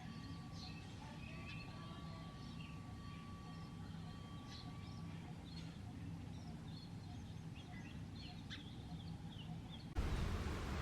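Birds chirping and calling faintly, many short calls scattered over a steady low rumble of outdoor background noise. Near the end the background cuts to a louder, noisier one.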